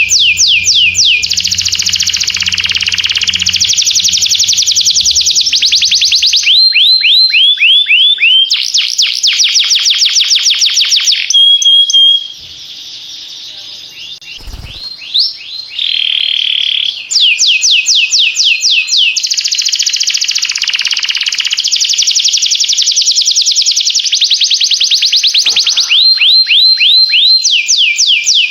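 Canary singing: long trills of rapidly repeated sweeping notes, phrase after phrase, with a short quieter break about halfway through that holds a brief steady whistle.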